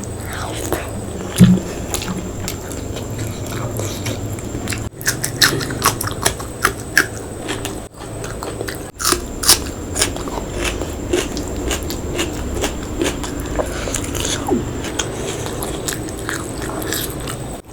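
A person eating close to the microphone: chewing, with many short sharp clicks and crunches from biting, densest in the middle of the stretch.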